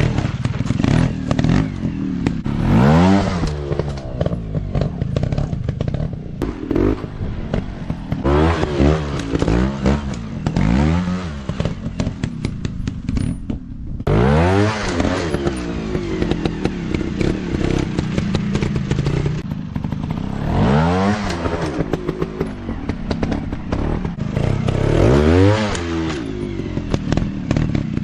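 Dirt bike engine being ridden off-road, the throttle opened in repeated bursts so the revs climb sharply and drop back about six times, with clattering from the bike over rough ground.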